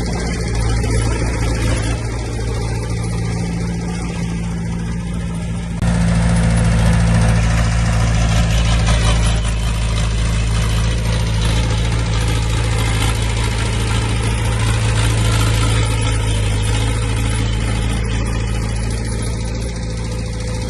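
Diesel engine of heavy earthmoving equipment running steadily, with a sudden step up in loudness about six seconds in.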